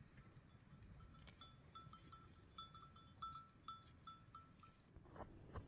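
Faint, quick run of small bell clinks, about four a second, stopping near the end, followed by two sharp knocks.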